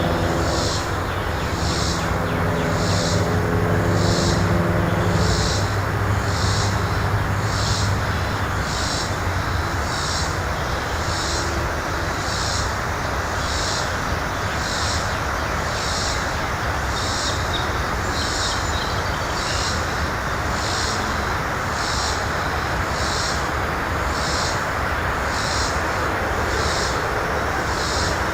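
Steady outdoor rumble of distant engine noise, with a humming engine tone that fades away in the first several seconds. Over it, a high-pitched chirp repeats about once a second.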